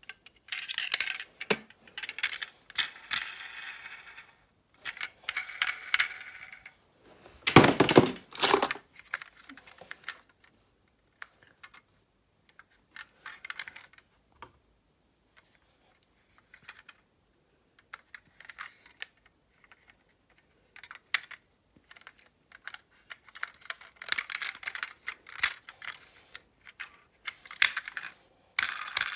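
Irregular clicking and clattering of small hard objects being handled, in bursts separated by short pauses, loudest about a third of the way in.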